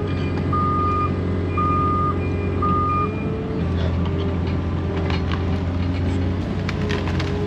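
A heavy machine's engine running steadily while its backup alarm beeps about once a second, stopping after about three seconds. A few sharp clicks and knocks come near the end.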